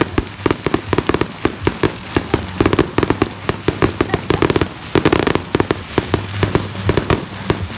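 A rapid barrage of fireworks: dense, overlapping bangs and crackles, many per second, with heavier booms in clusters about three and five seconds in.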